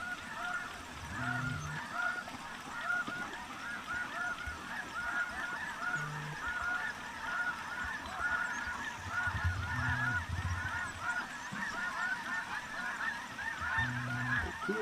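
A large flock of snow geese calling, a dense continuous chorus of many overlapping high-pitched honks.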